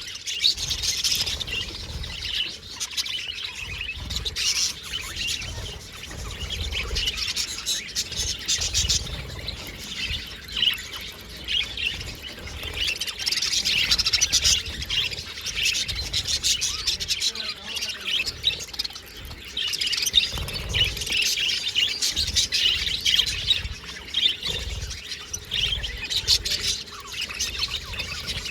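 A flock of budgerigars chattering continuously, a dense warble of high chirps and tweets, with intermittent low thuds underneath.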